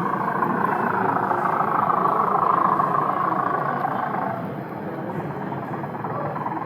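Model train running along the layout track, its motor and wheels growing louder and then easing off after about four seconds, over the murmur of the exhibition hall.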